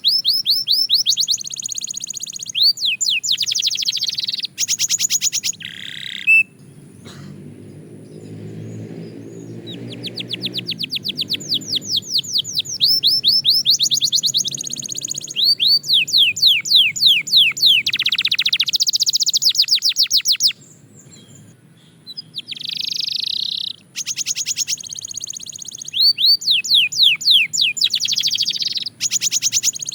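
Belgian canary singing in rapid trills of repeated high, quickly falling notes, phrase after phrase, with two longer pauses in the song.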